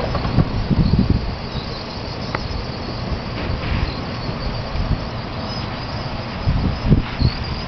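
Outdoor ambience with a steady high chirring and faint high chirps, broken twice by louder low rumbles, about a second in and near the end.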